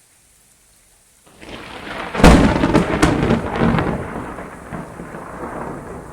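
A thunderclap over rain. About a second in, the thunder builds from the faint patter, breaks into a sharp crack with a few quicker cracks after it, then rolls off into a rumble that fades under the rain.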